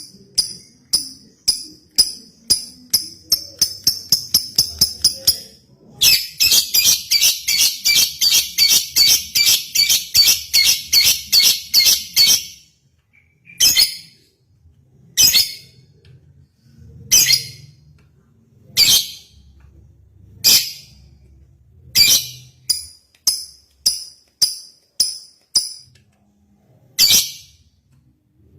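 Lovebird giving sharp, high chirps. It starts with a scatter of quick chirps, then a dense run of about three a second lasting several seconds from about six seconds in. After that come single chirps a second or two apart, quickening again near the end.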